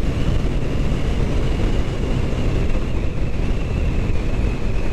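Kawasaki Ninja 650's parallel-twin engine running steadily while riding, with wind rushing over the microphone.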